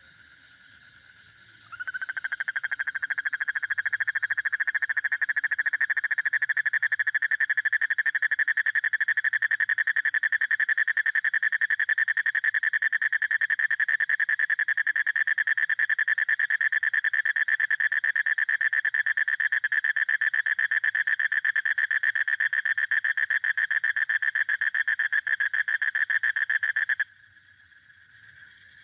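A long, very fast trill at one steady high pitch, starting about two seconds in and cutting off abruptly shortly before the end.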